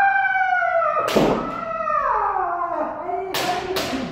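Kendo kiai: one long drawn-out shout that falls slowly in pitch, with a sharp bamboo-sword strike about a second in. Near the end, a quick run of sharp smacks of strikes and stamping footwork.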